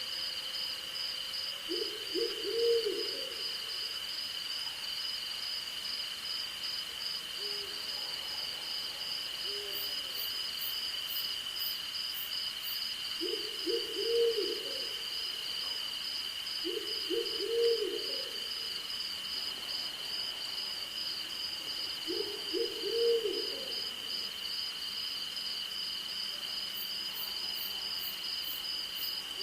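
An owl hooting four times, each call a short run of low hooted notes, over a steady chorus of night insects: one continuous high trill and a fast pulsing chirp. A short series of high ticks comes twice.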